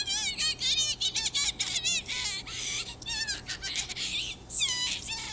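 Small birds chirping: a quick, continuous run of short high chirps, with a longer falling whistled note near the end.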